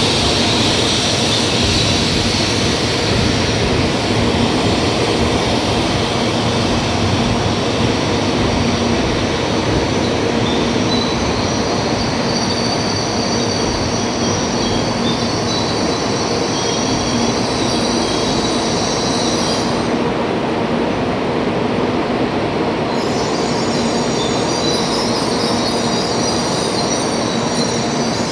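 Shinkansen train moving along the platform: a loud, steady rush of wheels and running gear with steady high-pitched tones. About twenty seconds in, the highest part of the sound drops away for a few seconds, then returns.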